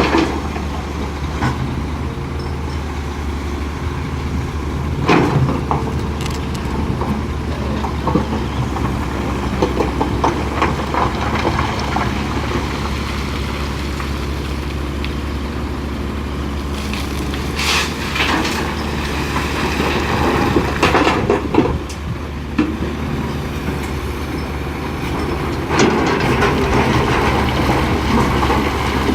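Hitachi EX450LC-5 excavator's diesel engine running steadily under load, with several spells of crashing and rattling as bucket loads of limestone rock drop into the dump truck's steel bed.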